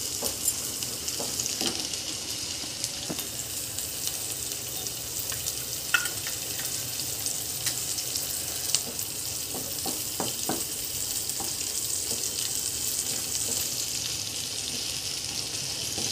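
Green chillies and chopped onion frying in hot oil in a non-stick kadhai: a steady sizzle, with a few light taps of the wooden spatula stirring them.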